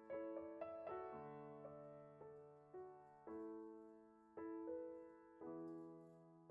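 Soft, slow background piano music: gentle chords and single notes struck about once a second, each left to fade.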